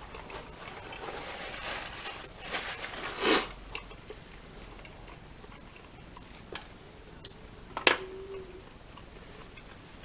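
Close-up eating sounds: chewing and mouth noises with a rustling stretch in the first few seconds, its loudest burst about three seconds in, then a few sharp clicks a little after the middle and a brief low hum.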